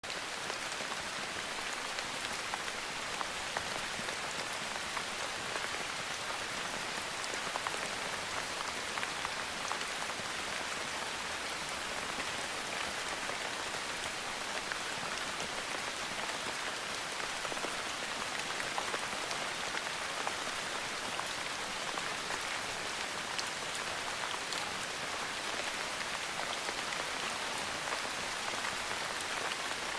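Steady rain falling, a dense even hiss sprinkled with many small ticks of individual drops.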